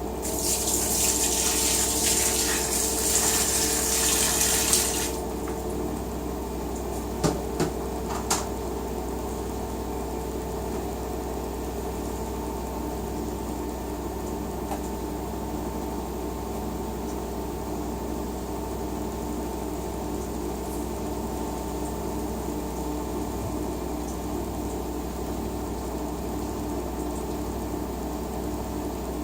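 LG WT-R852 direct-drive washing machine letting water rush into its tub for about four and a half seconds, then the inflow cuts off suddenly. A few sharp clicks follow, then a steady hum with a slow, regular pulse.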